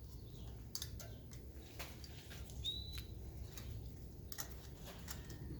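Utility knife trimming tape on a label: faint scattered clicks and light scrapes. One short, rising bird chirp about two and a half seconds in.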